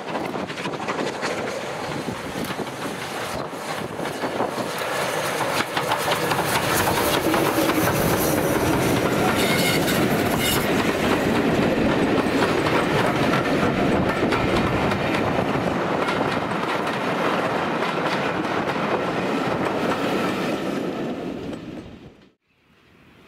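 Steam-hauled passenger train running past, its wheels clattering over the rail joints. The sound swells about five seconds in, holds, then fades and cuts off near the end.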